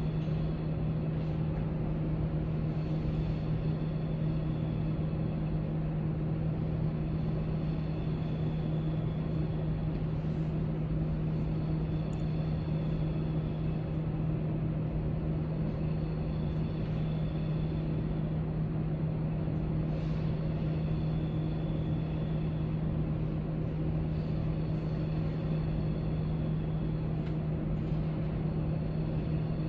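Steady library room tone: an even low hum with a strong steady drone, and faint light clicks and ticks scattered through it.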